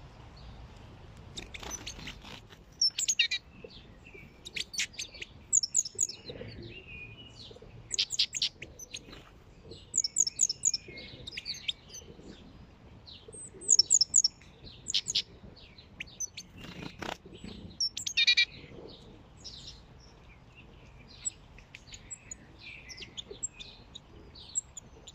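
Small songbirds chirping and calling: repeated short bursts of quick, high chirps, some overlapping, with a brief knock about two-thirds of the way through.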